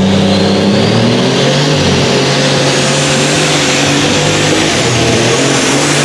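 Pulling tractor engine running hard at high revs, its pitch wavering, with a high whine that climbs in pitch through the first few seconds and then holds.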